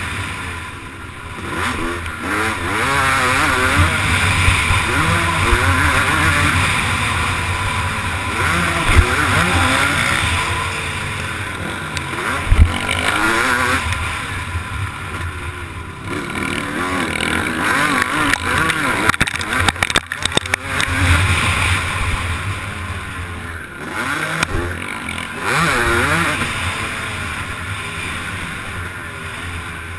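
Motocross bike engine revving up and down repeatedly as it is ridden hard round the track, heard close up on an onboard GoPro with wind noise. Two sharp thumps stand out, about 9 and 12 seconds in, and there is a burst of clicks about two-thirds of the way through.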